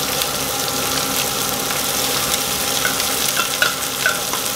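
Chunk tuna in brine sizzling and spitting as it is spooned out of the tin into a hot frying pan with tomatoes, the brine hitting the hot oil. A few light clicks and scrapes of the spoon on the tin come through, mostly in the second half.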